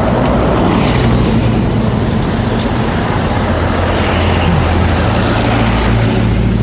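Street traffic of motorbike engines running close by, with wind rushing over the microphone as the bicycle rolls along.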